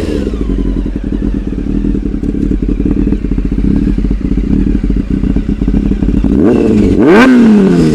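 1999 Honda CBR600 F4's carbureted 600cc inline-four running stationary: the revs drop back and settle into a steady idle, then one quick throttle blip about six and a half seconds in sends the pitch sharply up and back down. The exhaust note is called crazy.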